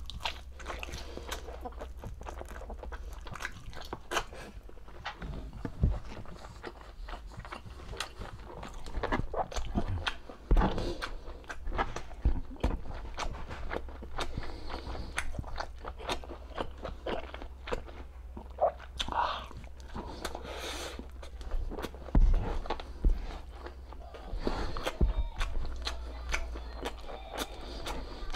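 A person chewing and eating braised pork humba close to the microphone: irregular wet smacks, bites and small clicks, over a steady low hum.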